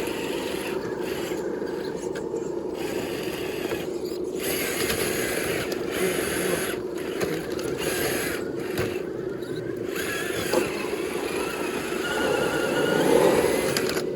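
1/10-scale RC rock crawler driving, its electric motor and geared drivetrain running with a steady whine, getting louder near the end.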